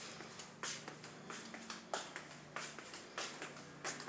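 Footsteps at an even walking pace, about six steps, over a faint steady low hum.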